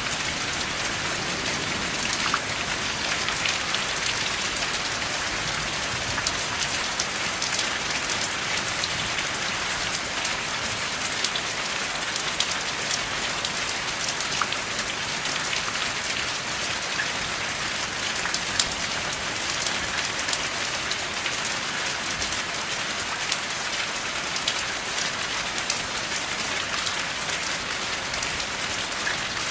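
Steady rain without thunder: an even hiss with many individual drops ticking sharply through it.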